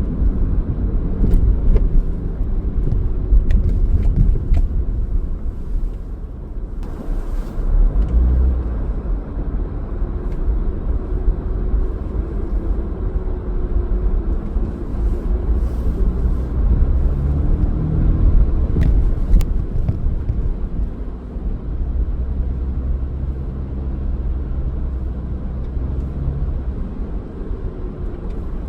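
Car driving, a steady low rumble of engine and road noise, with a few faint clicks here and there.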